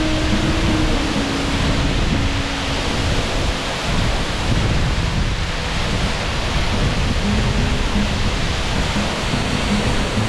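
Waterfall's falling water, a loud, steady rush of noise with no breaks.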